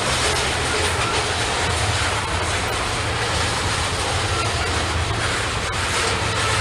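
Norfolk Southern freight train passing close by: a steady, loud rumble of the train running, with a few faint clicks from the wheels on the rails.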